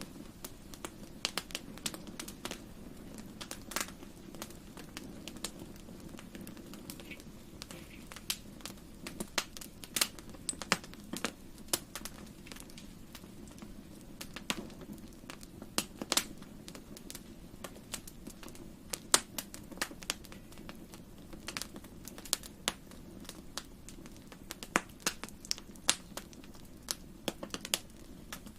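Wood fire crackling in a fireplace: irregular sharp pops and snaps over a soft steady burn.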